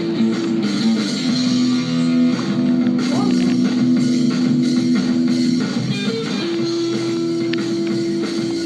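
Rock band playing, with guitars holding long sustained notes that change pitch a few times.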